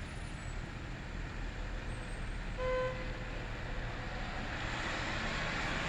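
Road traffic passing on a snowy street: a steady low engine rumble, with tyre noise building toward the end as a vehicle approaches. A single short beep sounds about halfway through.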